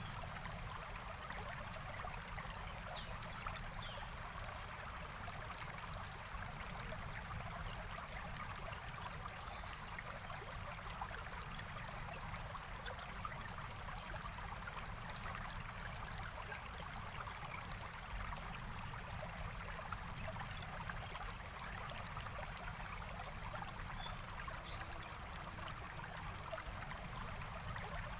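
Forest stream flowing steadily, a continuous rushing trickle of water over stones. A few faint, short high bird chirps come through now and then.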